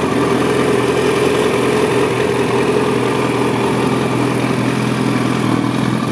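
Yamaha FZ1S's inline-four engine idling steadily through an aftermarket Lextek exhaust.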